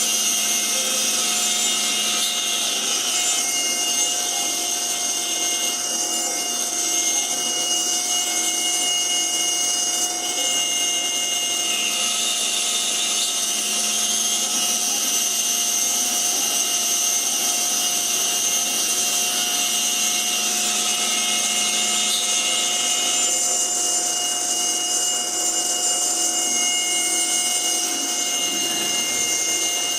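CNC router spindle running with a steady whine while its bit mills a wooden ring insert; the cutting noise rises and falls every few seconds as the tool moves through the wood.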